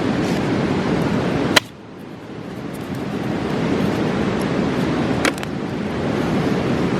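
Rushing mountain river with a steady, dense roar. A sharp pop comes about a second and a half in and a weaker one a few seconds later, typical of campfire wood popping. After the first pop the rush drops suddenly and swells back over a second or so.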